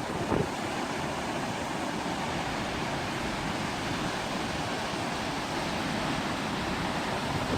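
Steady, even rush of wind and sea surf, with no distinct events.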